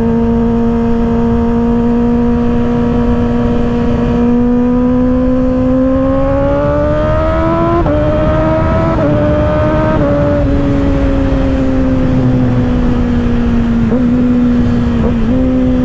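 2024 Kawasaki ZX-6R's 636 cc inline-four, breathing through an M4 exhaust, running at a steady high pitch, over a steady wind rush. The revs climb for a few seconds, drop in three quick steps like upshifts, then ease off slowly, with two short dips near the end.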